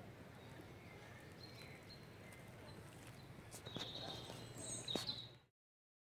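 Small birds chirping faintly in a forest in short high calls, busier in the second half, with a few sharp clicks among them. The sound cuts off abruptly about five and a half seconds in.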